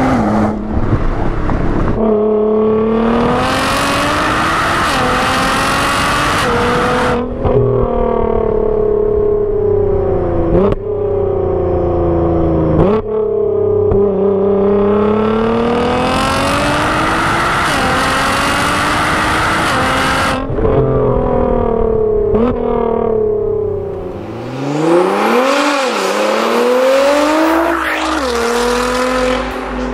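Nissan GT-R's twin-turbo V6 accelerating hard, heard from inside the cabin: the engine note climbs in pitch and drops sharply at each upshift, several times over. Near the end there is a shorter, quick rise and fall in pitch, and background music with a steady beat comes in.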